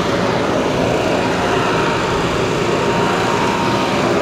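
Steady engine noise of a car running, holding an even level without revving up or down.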